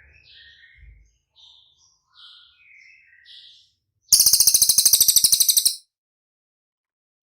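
A songbird (cililin) singing a run of short chirped notes, then, about four seconds in, a loud rapid high trill of evenly spaced clicks lasting about a second and a half.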